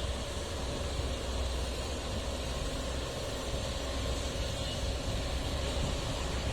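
Heavy truck engine running steadily: a constant low rumble with a faint steady hum above it.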